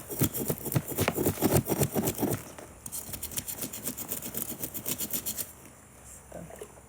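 Scales being scraped off a dry fish in rapid, repeated strokes, several a second. A heavier run comes first; after a short pause a lighter, higher-pitched run follows and stops a little past halfway. The dry scales make the fish hard to scale.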